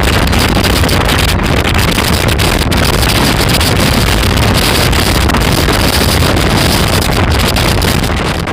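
Strong wind buffeting the microphone: a loud, steady rumbling roar with hiss, which cuts off at the very end.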